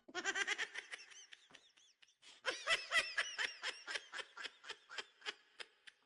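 Rapid high-pitched laughter in quick short bursts, about four to five a second, breaking off briefly a little over a second in and then running on.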